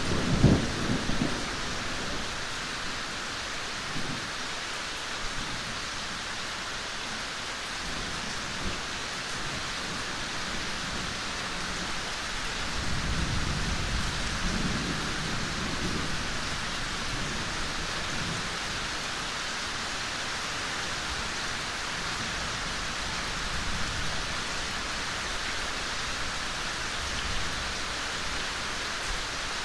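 Steady rain falling, an even hiss, with low rumbles of thunder: a loud one right at the start and a longer, softer one around the middle.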